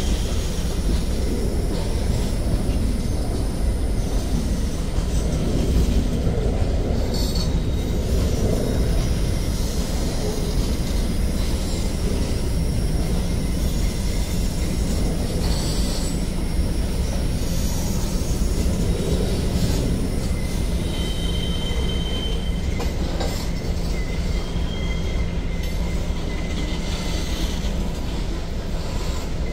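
Freight cars of a manifest train rolling steadily past: a continuous low rumble of steel wheels on rail with occasional clacks, and brief high-pitched wheel squeals in the second half.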